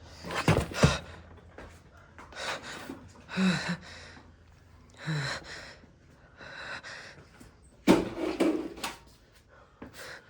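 A person breathing hard in a series of gasps and pants, about one every second or two.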